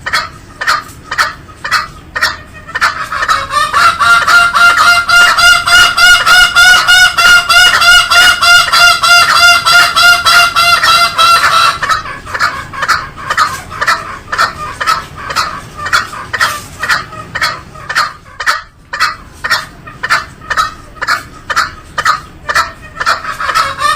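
Green junglefowl calls, short notes repeated in an even, rapid series. From about three seconds in to about twelve seconds the notes come louder and closer together as a ringing run, then fall back to the sparser train.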